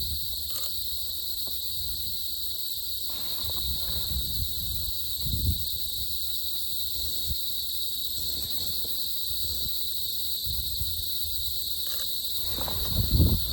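Steady forest insect chorus, a continuous high buzzing drone at several pitches. A few soft low thuds and rustles of movement come through it, the loudest near the end.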